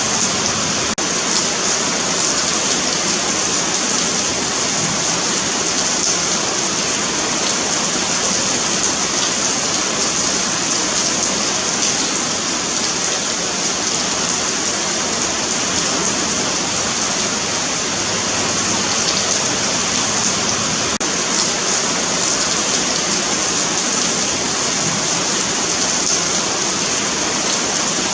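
Steady rain falling on a paved sidewalk, an even hiss of drops spattering on concrete with faint individual drop ticks.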